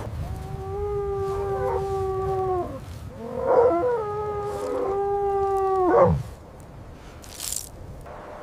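Wolf howling: two long, steady howls, each falling away at the end. The second one drops off sharply about six seconds in.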